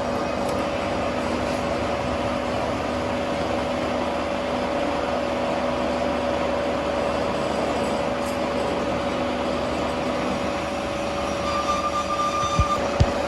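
Steady factory machinery running with a constant hum, with two short knocks near the end.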